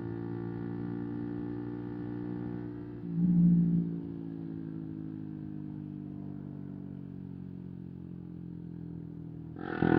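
A 125 cc single-cylinder motorcycle engine running through an aftermarket exhaust, its pitch slowly sinking as the revs fall, with a brief louder burst about three seconds in. Near the end the throttle opens and the revs climb sharply.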